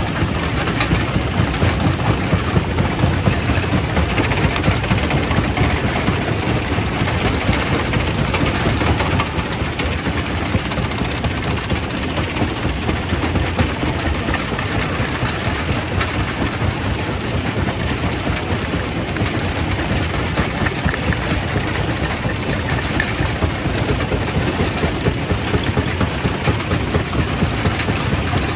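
Quarry primary rock crusher running: a steady heavy mechanical rumble with a constant clatter of small knocks as stone is crushed.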